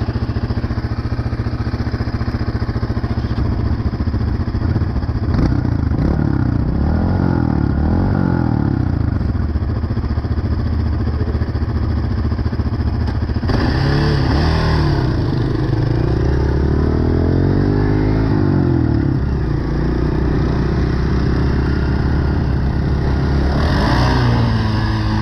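An off-road engine running steadily, revved up and down several times: about six seconds in, again for several seconds from about fourteen seconds in, and briefly near the end.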